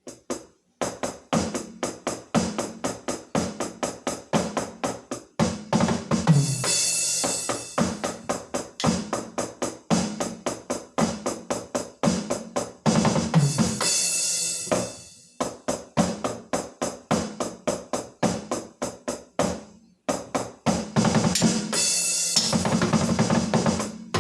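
Drum kit played solo: a fast, even beat of bass drum and snare, broken by three louder cymbal-heavy fills and a few brief stops.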